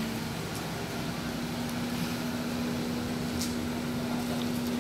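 Nissan Juke's engine running steadily at low revs as the car creeps and turns at walking pace: an even hum with a few faint ticks.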